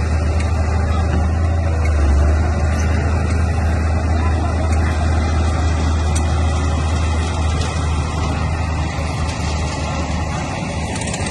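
Crawler bulldozer's diesel engine running steadily with a strong low drone, with faint rapid clicking near the end.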